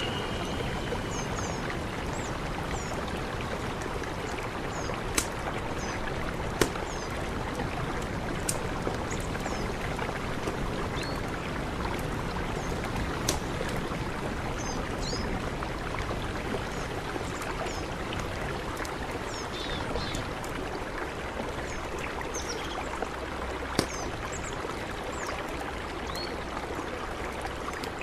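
Mountain river rushing steadily. Short high chirps are scattered through it, and a few sharp clicks stand out about five, seven and twenty-four seconds in.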